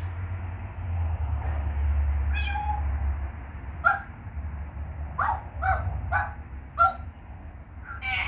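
African grey parrot giving a series of about seven short, pitched calls, most of them close together in the second half, over a steady low hum.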